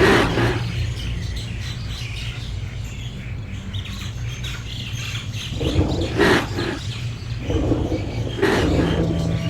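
Birds calling: a few loud calls, at the start, about six seconds in and again near the end, over a low steady hum.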